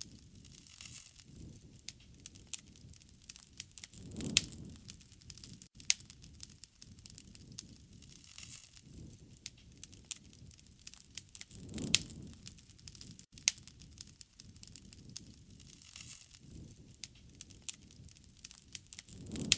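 Wood fire crackling, with many sharp pops and a soft low rush of flame that swells every several seconds.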